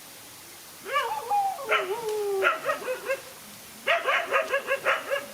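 Dogs in a confrontation, crying and barking: from about a second in, drawn-out high cries that slide down in pitch, then choppy short calls, and near the end a fast run of sharp yapping barks, about four a second.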